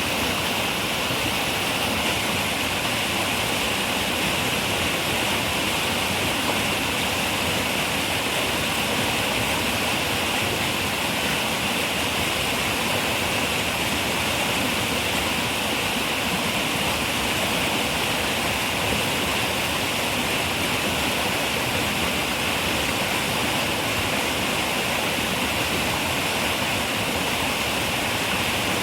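A river running steadily, its rushing water making an even hiss that carries most in the upper range.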